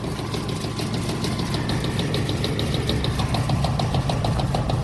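Heat-pump condensing unit running with a steady low hum and a fast, even rattling pulse, its compressor vibrating hard enough to shake the line set: a sign the compressor may be failing.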